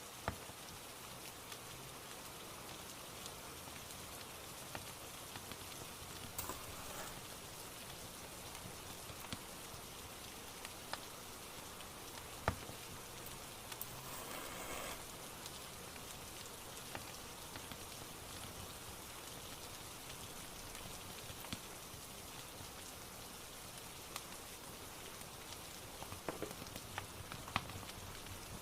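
Steady rain ambience with scattered sharp crackles and pops of a wood fire, the loudest pop about halfway through.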